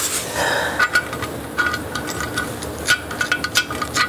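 Small metal hardware clicking and clinking as it is handled: brass-plated toilet tank bolts with their washers and nuts, in a quick irregular run of light clicks with a faint ring.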